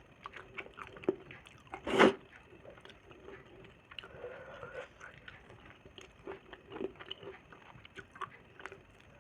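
Close-up eating sounds of chicken gravy and fried egg: wet chewing and mouth smacks with scattered small clicks, and one louder sharp smack about two seconds in.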